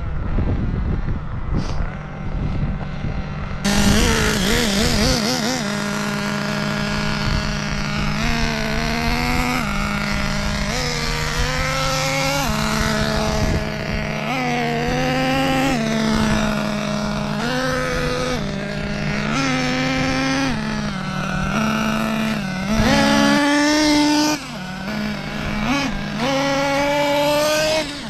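Kyosho nitro buggy's new SH .21 glow engine being broken in, revving up and down over and over as the throttle is worked, from about four seconds in.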